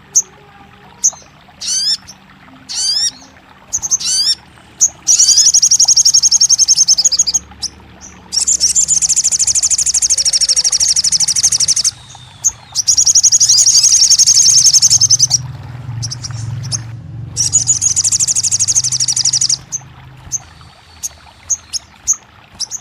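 A sogon bird's song: a few short, falling high calls, then four long, rapid, high-pitched trills of several seconds each, with short chips near the end. It is the kind of song played to a caged sogon that has gone quiet, to get it to sing back.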